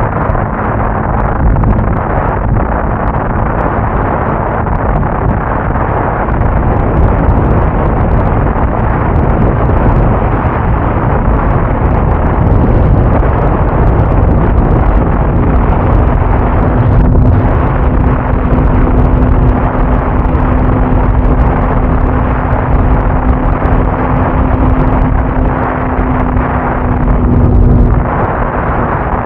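Motorcycle under way, its engine making a steady hum that rises a little in pitch about halfway through, under loud wind buffeting on the microphone.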